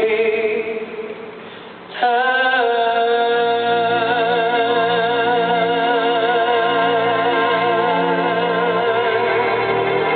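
A woman singing live: one note fades away, then about two seconds in she holds a long, loud note with a wide vibrato for most of the rest, over a low sustained accompaniment.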